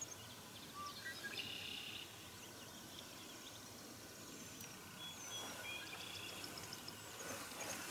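Faint birdsong over quiet open-air ambience: a few short, high chirps and whistles, some about a second in and more around the middle.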